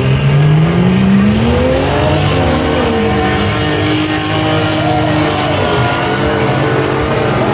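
Several race trucks' engines revving and accelerating on a dirt track, their pitches rising and falling as they pass.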